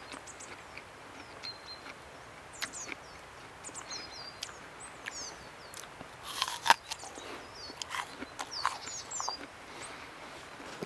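Small birds calling in short, high, quick chirps over a faint hiss of outdoor air, with scattered sharp clicks; a denser burst of chirps and clicks comes about six and a half seconds in, the loudest click near seven seconds.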